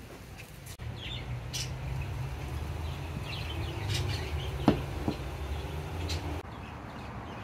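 Small birds chirping in short high calls, over a low rumble, with one sharp knock a little past halfway.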